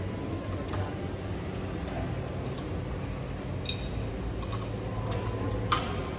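Light metallic clinks and taps from hand tools and loose metal parts, a few scattered strikes with the sharpest near the end, over a steady low hum.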